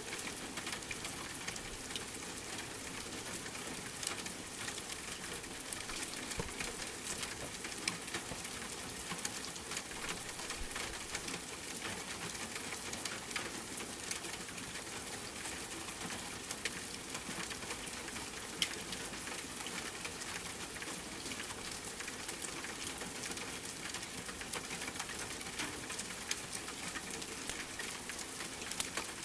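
Steady rain falling, mixed with the small pops and crackles of a wood fire burning in a fireplace; one sharper pop about two-thirds of the way through.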